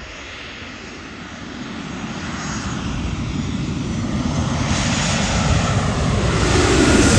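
Airliner engines approaching low overhead, a steady roar that grows louder throughout.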